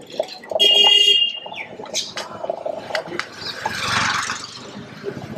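Street traffic with a vehicle horn sounding one short, steady, high-pitched beep about half a second in. A passing vehicle swells and fades near the middle, among scattered knocks and clatter.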